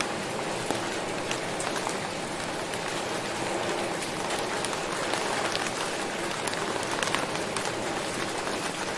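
Steady rain falling, a continuous hiss with many separate drop ticks striking a surface.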